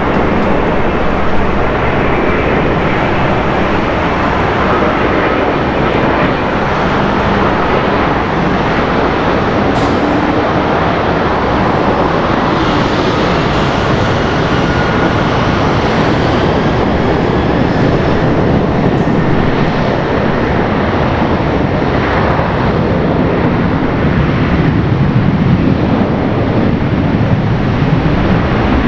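Jet engines of a widebody twin-engine airliner on its landing, a loud, steady rush of noise with faint whines gliding in pitch.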